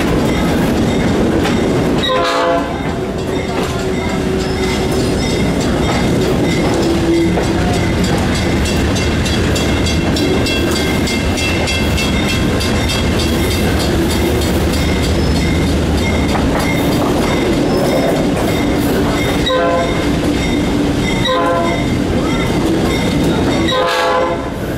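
A tourist train heard from an open-air excursion car: a steady loud rumble of the train running, with a run of wheel clicks over rail joints now and then, and the locomotive's horn sounding.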